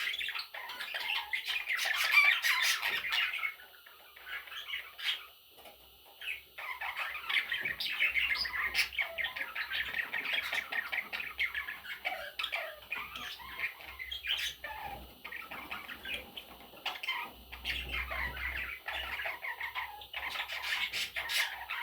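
Budgerigars chattering and squawking in a busy, continuous stream of rapid chirps and harsh calls, with a short lull a few seconds in.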